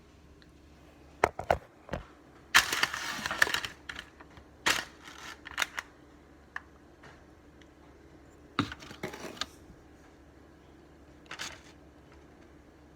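Scattered sharp knocks and clicks from handling metal cake pans, with a crinkling rustle of parchment paper lasting about a second, about two and a half seconds in.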